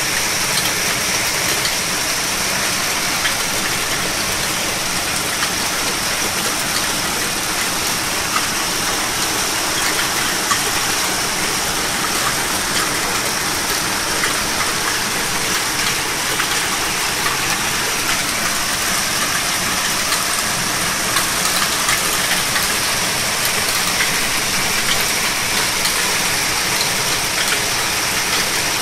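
Torrential downpour: a steady, dense hiss of heavy rain, peppered with many small ticks of drops striking nearby surfaces.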